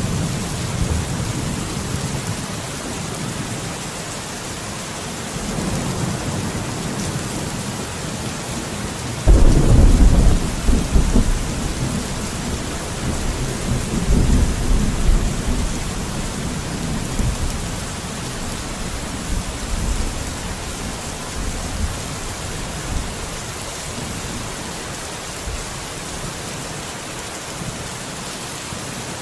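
Steady rain with rolling thunder. A loud thunderclap breaks in suddenly about nine seconds in and rumbles away over several seconds, followed by softer rolls of thunder.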